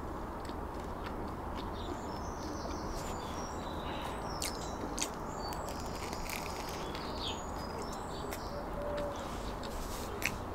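Small birds chirping now and then over a steady background hiss, with a few short crisp clicks from biting and chewing a crusty baguette sandwich.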